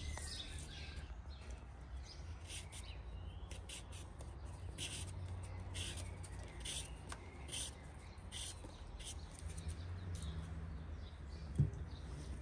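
Birds chirping in short, scattered calls over a low steady rumble, with a single knock near the end.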